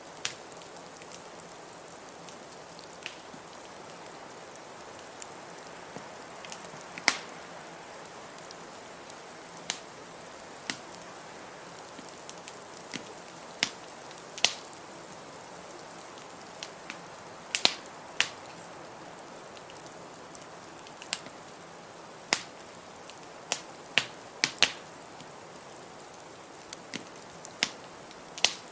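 Wood fire crackling: irregular sharp pops and snaps, some loud, over a steady rush of noise.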